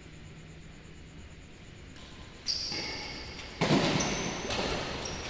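Indoor badminton play on a hall court: shoes squeaking on the court floor from about halfway through, and a louder burst of noise a second later.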